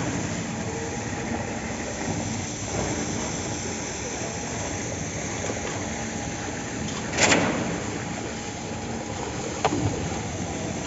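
Construction machinery running steadily at a concrete slab pour, with a short louder whoosh about seven seconds in and a sharp knock near the end.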